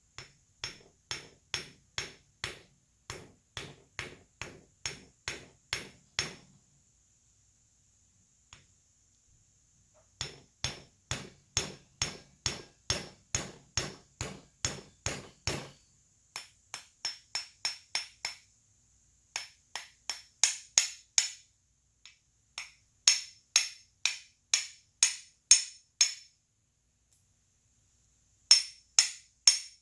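Small hammer lightly tapping, with a bright metallic ring, seating tiny injector baskets onto Bosch fuel injectors. The taps come about two a second in runs broken by short pauses, and grow harder in the later runs.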